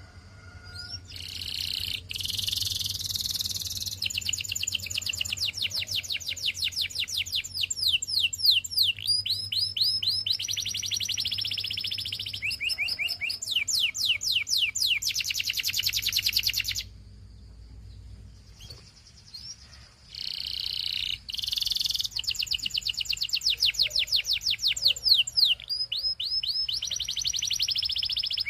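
Canary singing: long runs of fast repeated trills and rolls, with a break of about three seconds after the middle before the song starts again.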